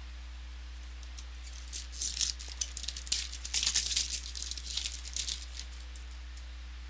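Trading card pack and cards being handled: crinkly, rattling rustle in quick bursts for about three and a half seconds, starting about two seconds in.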